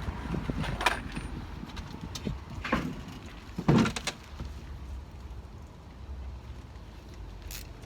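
A few knocks and scrapes of handling work on the window, the loudest about three and a half seconds in, over a low steady rumble.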